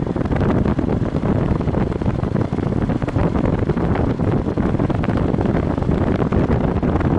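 Strong wind buffeting the microphone: a steady, choppy low rush with no clear engine note above it.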